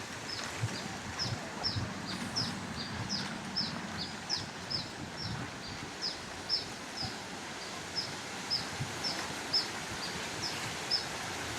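A bird calling steadily with a long run of short, high, downslurred chirps, about two to three a second. Soft footsteps on dry leaves sound underneath.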